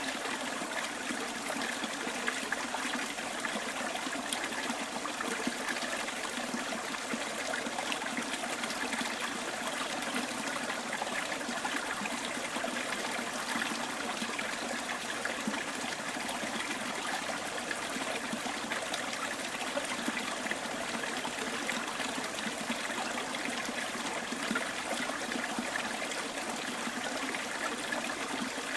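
Small stream trickling and babbling over rocks, a steady rush of running water.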